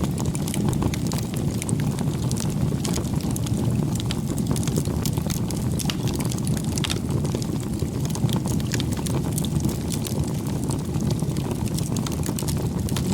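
Bonfire crackling: a steady low rumble of burning wood with many small, irregular pops and snaps.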